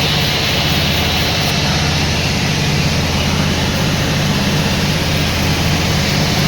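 Sawmill machinery running steadily: a constant low hum under an even hiss, with no cut or change.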